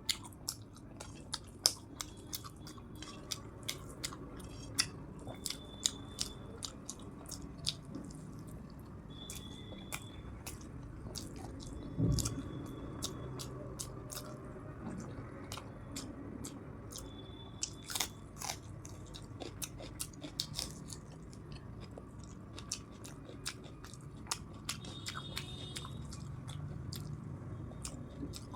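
Close-miked chewing and biting of soft paneer and fried rice, with many sharp wet mouth clicks. There is one louder dull thump about twelve seconds in.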